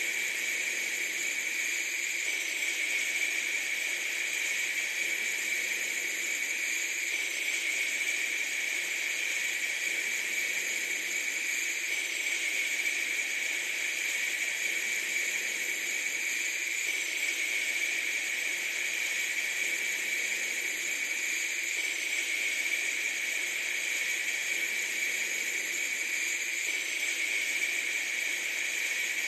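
A steady, even hiss that holds unchanged throughout, pitched fairly high with no low rumble.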